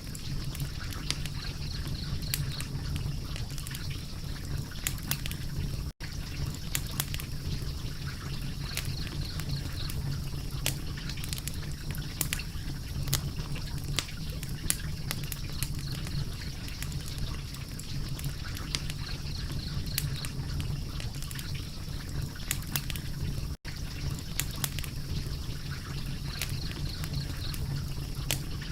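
Fire crackling: scattered sharp pops and snaps over a steady low rumble. The sound cuts out for an instant twice.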